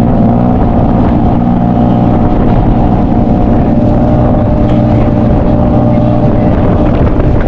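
Small tuk-tuk engine running loudly and steadily, heard from aboard the moving three-wheeler.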